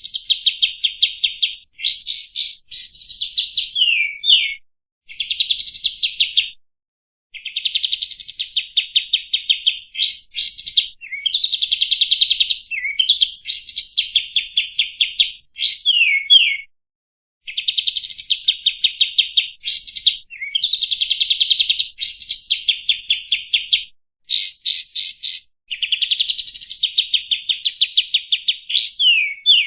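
Kapas tembak, a bulbul, singing: phrases of rapid, high, chattering notes mixed with quick falling whistles, each phrase one to three seconds long with brief pauses between.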